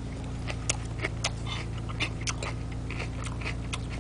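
A person chewing a mouthful of crisp lettuce leaf, with crunches at irregular intervals, over a steady low hum.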